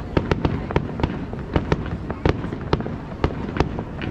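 Fireworks display with shells bursting in quick, irregular succession: about four sharp bangs a second over a continuous rumble.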